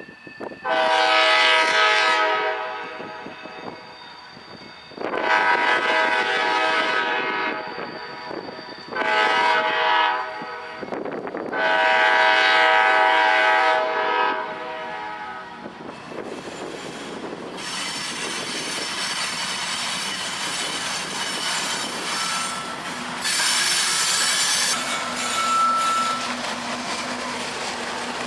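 CSX freight locomotive's air horn sounding the grade-crossing signal: two long blasts, one short, one long. The train then passes with steady wheel-on-rail noise and a couple of brief wheel squeals.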